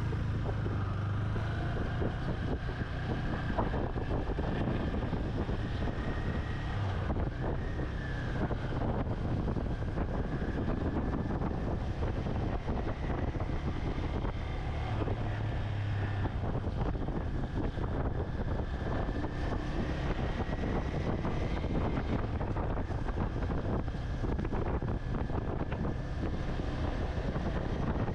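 Wind buffeting the microphone: a steady rushing noise with a low rumble throughout and a faint high whine that drifts a little in pitch.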